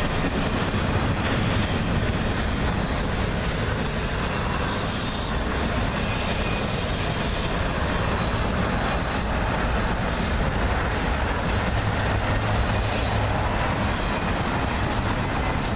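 Freight train cars rolling past, with a steady rumble of steel wheels on rail.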